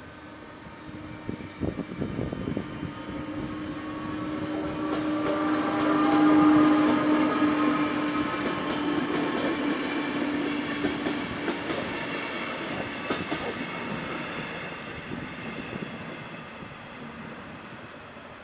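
RegioJet passenger train passing over the level crossing, its rumble building to a peak about six seconds in and then slowly fading. A steady low hum rides along with it until about eleven seconds in, with clacking from the wheels on the rails.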